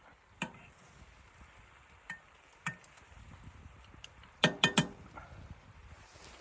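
Scattered light clinks and knocks, then a quick run of three louder knocks about four and a half seconds in.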